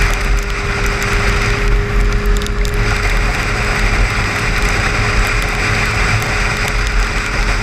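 Car driving at highway speed: steady road and tyre noise with a low rumble and a constant hum, scattered light ticks, and the hiss growing louder about three seconds in.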